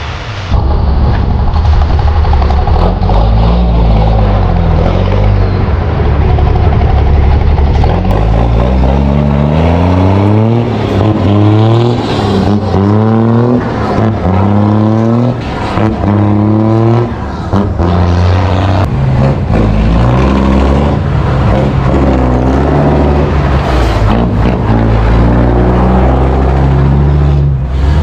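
Heavy truck's diesel engine running loud and being revved in a series of quick rises and falls about every second and a half, then settling back to a steady run.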